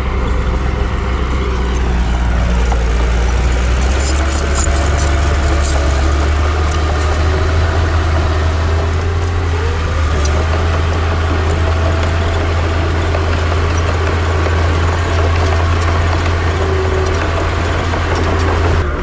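Heavy diesel earthmoving machinery running steadily with a deep engine hum, its pitch shifting up and down a little, and scattered clicks and knocks, thickest about four to five seconds in.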